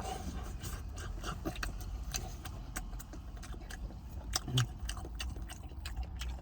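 Eating sounds from breakfast burritos: scattered small clicks and rustles of wrapper handling and chewing, with a single low thump about four and a half seconds in, over a steady low hum.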